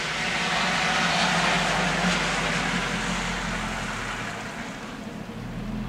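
A passing vehicle: a rushing noise that swells over the first second or two and then fades, over a steady low hum.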